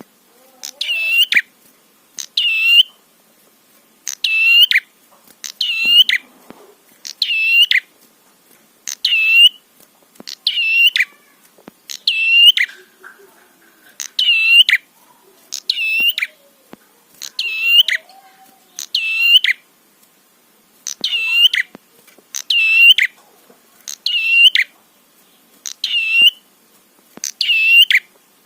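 Prenjak (prinia) song: one short, high chirping phrase repeated at an even pace, about once every one and a half to two seconds.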